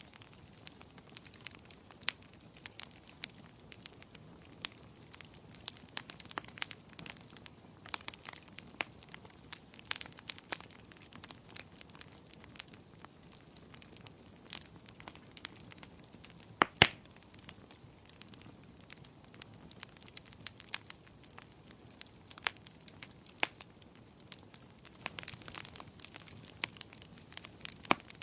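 Wood fire in a fireplace crackling, with irregular sharp pops and snaps over a low hiss; one louder pop about 17 seconds in.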